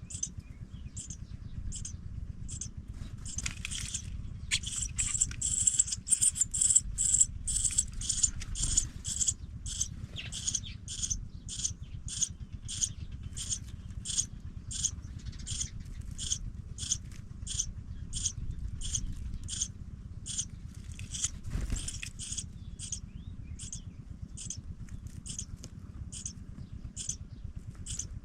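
Pipit nestlings cheeping in the nest: short, high-pitched peeps repeated about twice a second, thickest and loudest for several seconds near the start, over a steady low rumble.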